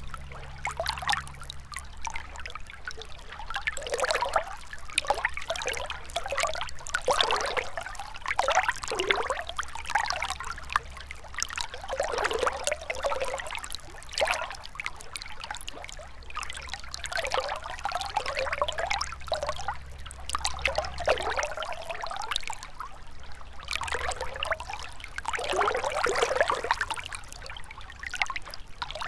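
A gentle river flowing and trickling over stones, with uneven splashes and gurgles that swell and ease every second or two.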